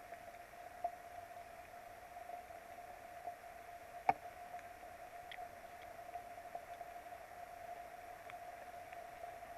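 Rain on an outdoor nest camera: a steady hiss with a constant hum-like tone, and scattered ticks of drops striking the camera, one sharp tick about four seconds in.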